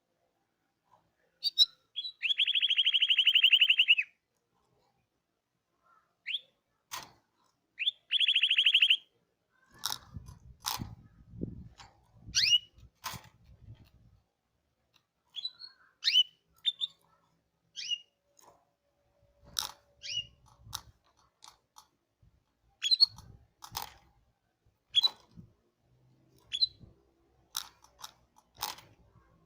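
Canary singing: a fast rolling trill lasting about two seconds, another about a second long a few seconds later, then scattered short chirps mixed with sharp clicks.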